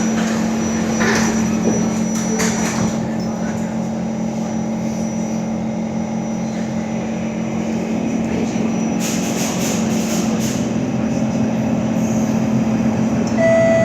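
Inside a Kawasaki C151 metro car with permanent-magnet synchronous traction motors: a steady low hum that grows louder about two-thirds in, a few clicks in the middle, and a higher whine starting near the end as the train gets under way. This is the car reported to make a weird sound when departing.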